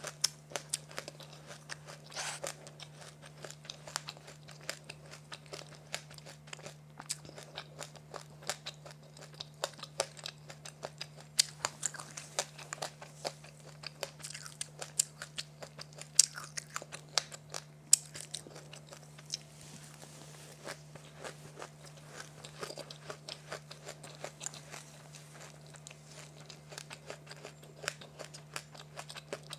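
A person chewing and biting crunchy food: a dense run of small crunches and crackles, with a few louder bites near the middle.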